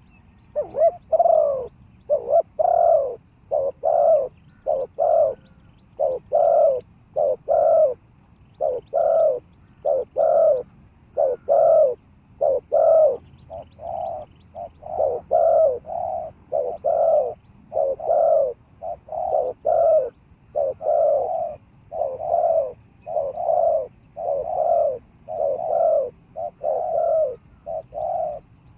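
Spotted dove cooing over and over, about one loud coo a second in an unbroken run, the call used to lure wild doves to a caged decoy.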